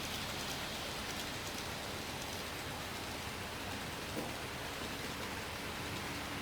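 KATO N-gauge model train, an EF510 locomotive hauling Hokutosei sleeper coaches, running on the track: a steady rolling hiss of small wheels on the rails and the running motor.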